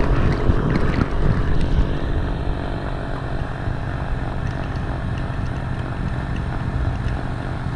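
Vehicle engine running steadily with a low rumble. Its hum is strongest in the first second or so, then eases off.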